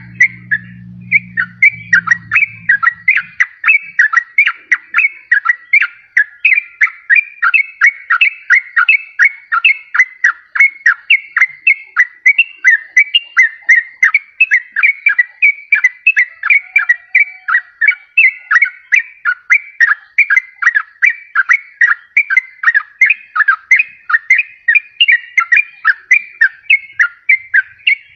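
Yellow-vented bulbul singing: a fast, unbroken run of bubbly chirping notes, several a second, with no pause.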